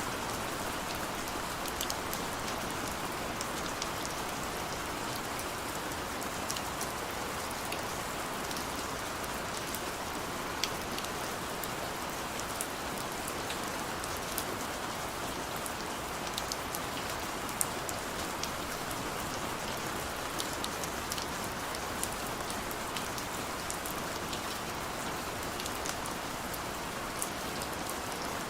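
Heavy rain falling steadily, a dense even hiss with many separate drops ticking sharply on a surface.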